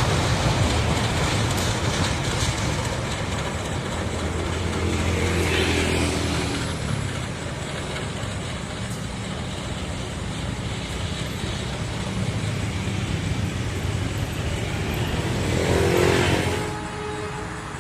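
Motor vehicles running steadily, with two passing close by about six seconds and sixteen seconds in, each swelling and dropping in pitch as it goes past.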